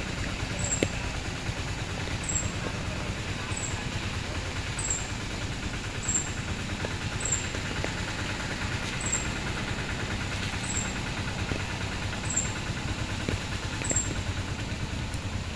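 A vehicle engine running steadily, with a short high chirp repeating about every second and a quarter.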